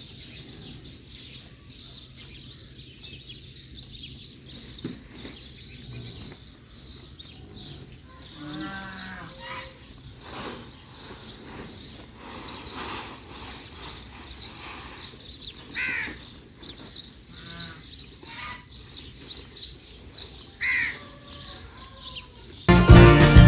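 Farmyard sounds: a faint background with a few short calls from livestock and birds, among them crows cawing. Music starts just before the end.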